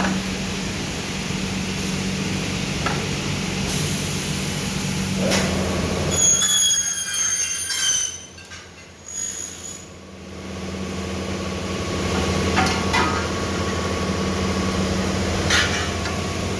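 Double-head cutting saw running with a steady motor hum. About six seconds in, a high squeal rises over it for about two seconds as the blade cuts. The machine then goes briefly quiet before the motor builds up again, with a few short clicks.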